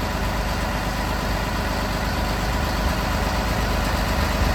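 School bus engine idling steadily with the chassis air conditioning running on a new compressor, while the system is being charged and is still low on refrigerant.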